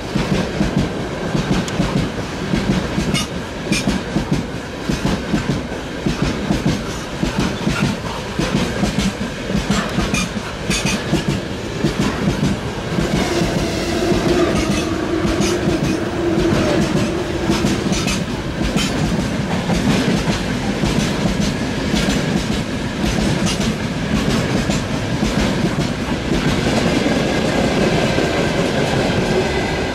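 Freight train rolling past close by, its wheels clattering steadily over the rail joints. A steady tone rises above the clatter for a few seconds about halfway through.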